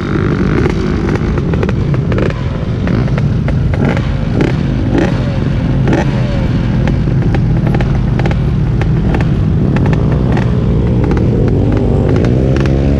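Off-road vehicle engine running steadily, with many sharp clicks and pops over it and its pitch climbing near the end.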